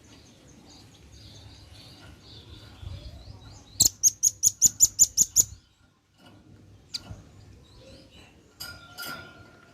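Velvet-fronted nuthatch calling: soft high twittering, then a loud rapid run of about ten sharp high chips a little under four seconds in, with a few more calls near the end.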